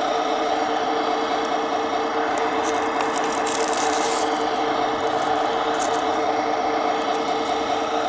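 Tamiya Scania 770S radio-controlled model truck running, a steady drone with a brief hiss about three and a half seconds in.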